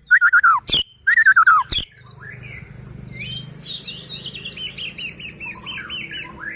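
White-rumped shama singing: loud, falling whistled phrases cut by two sharp cracks in the first two seconds, then a quieter run of rapid, short falling notes.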